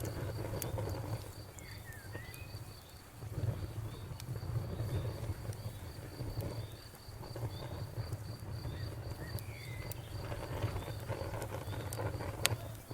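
Wood fire burning in a fireplace: a low rumble of flames that swells and fades, with scattered crackles and one sharp pop near the end. A faint, even, high chirping repeats through most of it.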